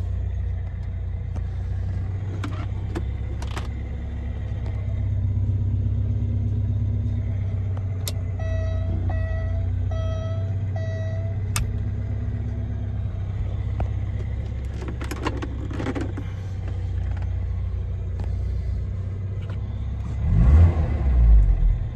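1987 Alfa Romeo Spider Graduate's twin-cam four-cylinder engine idling steadily while still warming up after a cold start. About midway, a run of about five short beeps sounds, and the sound swells briefly near the end.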